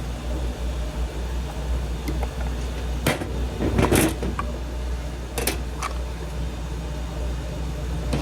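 Hands working a refrigerator's control board out of its housing: a few sharp plastic clicks and knocks, the loudest about four seconds in, over a steady low hum.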